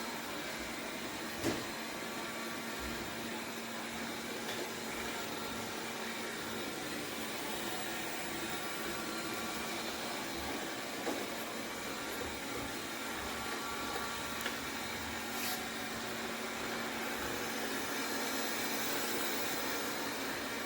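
Tikom L8000 Pro robot vacuum running with a steady whir, with a low steady hum under the noise and an occasional faint click or knock.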